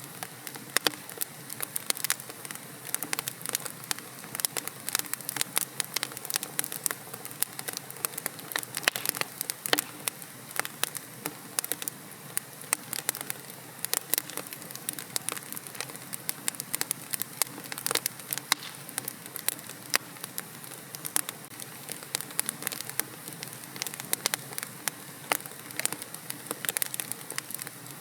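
Wood fire crackling in a fireplace: frequent sharp, irregular pops and snaps over a soft steady hiss of burning.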